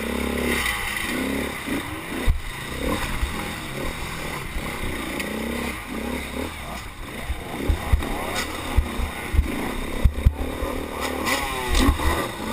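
Motorcycle engine revving up and down again and again under racing load, with rattles and several sharp knocks over it.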